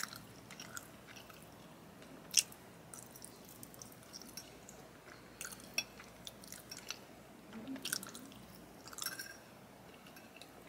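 A person chewing a mouthful of chicken Alfredo pasta close to the microphone: soft wet clicks and smacks at irregular intervals, with one sharper click about two and a half seconds in.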